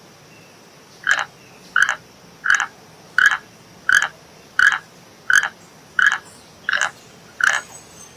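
An animal calling: ten short, evenly spaced calls, about one and a half a second, each a brief buzzy note.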